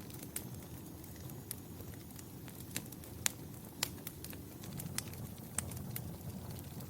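Wood fire crackling in a fireplace: a steady low rumble of burning with scattered sharp pops, several of the loudest coming a little before and after the middle.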